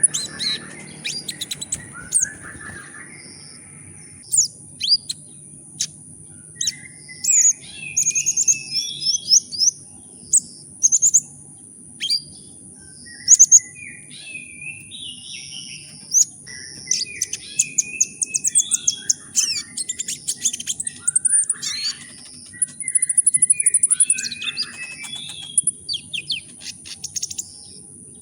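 A sunbird (the 'kolibri ninja' of Indonesian bird-keepers) singing a fast, busy run of short high chirps and rapid trills, one phrase after another, over a steady thin high whine.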